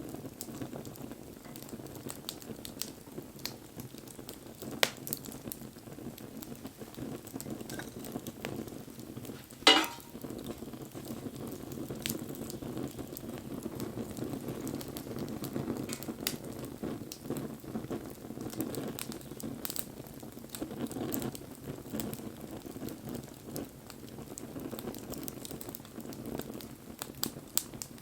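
Wood bonfire burning: a steady hiss and sizzle with scattered small crackles, and one loud sharp pop about ten seconds in.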